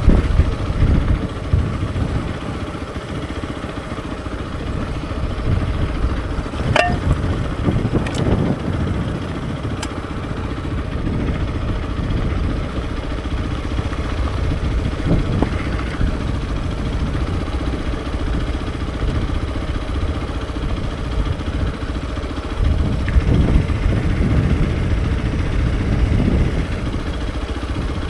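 Hero XPulse 200 4V's single-cylinder engine running during a ride, its loudness swelling and easing with the throttle.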